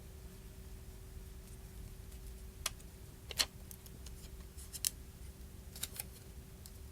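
A handful of short, sharp clicks and taps, the loudest a little past the middle, from small tools and parts being handled during a phone battery replacement, over a faint steady hum.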